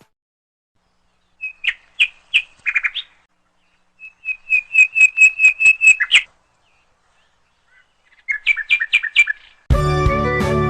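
Small songbird chirping in three short bursts of quick, evenly repeated high notes, the middle burst a run of about ten notes. Music with strings cuts in near the end.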